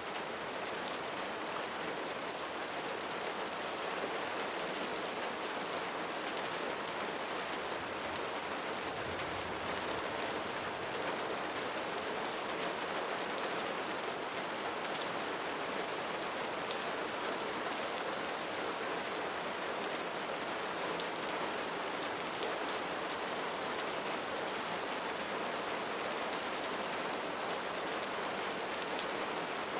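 Steady rain with a dense patter of drops striking leaves.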